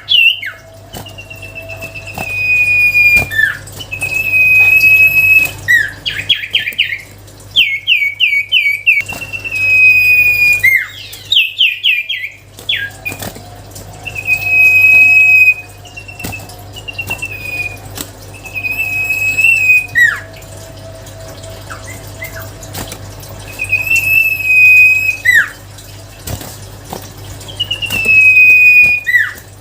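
Common iora (cipoh, the sirtu type) singing long, clear whistled notes, each held steady for a second or two and often ending in a quick downward slur, repeated with short gaps. A few runs of rapid, quick notes come in between, and a steady low hum runs underneath.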